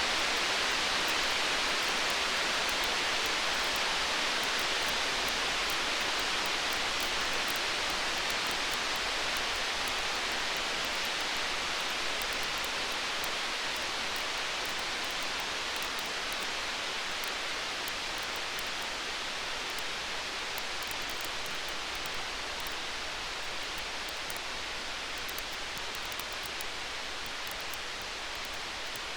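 Campfire crackling: many small fine pops over a steady hiss, easing slightly in loudness toward the end. No thunder is heard.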